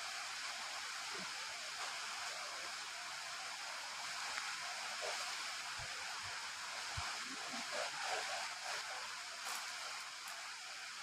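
Steady rain falling: an even hiss, with a few faint low thuds around the middle.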